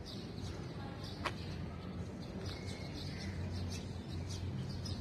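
Small birds chirping in short, scattered high calls over a steady low hum, with one sharp click about a second in.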